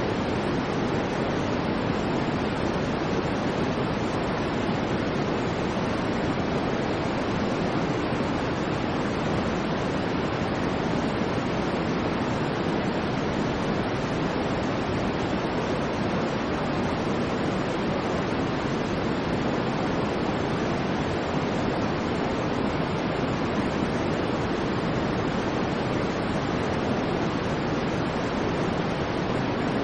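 Steady white noise for sleep: an even, unchanging hiss, fuller in the low-middle range than in the highs.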